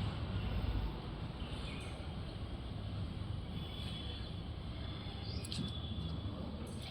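Steady background rumble with a few faint, brief high chirps.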